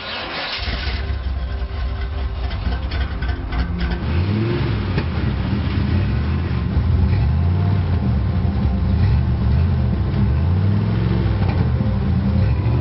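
Old car's engine running, revved up and down repeatedly with the gas pedal from about four seconds in.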